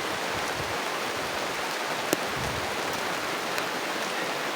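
Steady rain falling, an even hiss, with one sharp tick about two seconds in.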